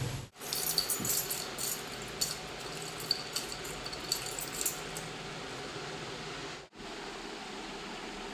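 A run of light clinks and taps over a steady hiss, some with a brief high ring, fading out about five seconds in.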